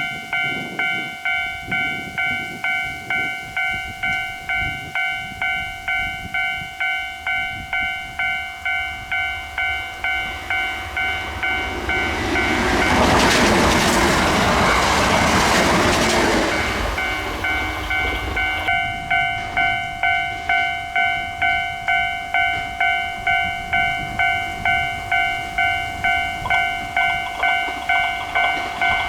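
Railway level-crossing warning bell clanging steadily at about one and a half strikes a second, while a Kintetsu electric train passes about twelve seconds in with a loud rush of running noise lasting about five seconds that drowns the bell.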